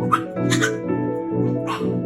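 Chow chow puppy giving three short, high-pitched yelps over background piano music.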